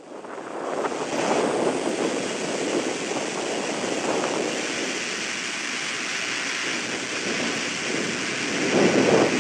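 Jet airliner engine noise: a steady rushing roar that builds over the first second and swells again near the end.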